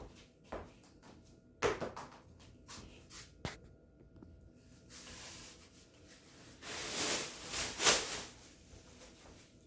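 Broom sweeping a floor, with scattered knocks and clicks of things being moved, then a soft swish about five seconds in and louder swishing strokes around seven to eight seconds in.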